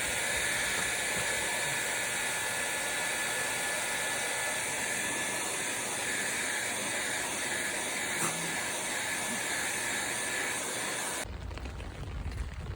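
Hand-held hair dryer blowing steadily with a hiss and a faint whine, then switched off suddenly about eleven seconds in, leaving a low rumble.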